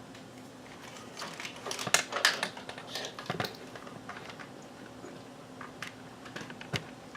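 Handling noises: a quick run of clicks and rustles from about one to three and a half seconds in, then a few scattered clicks, over a faint steady hum.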